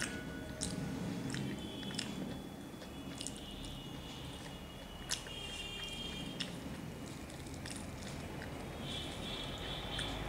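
Close-up mouth sounds of someone chewing soft luchi and pumpkin curry, with sharp moist clicks scattered irregularly, the sharpest about five seconds in.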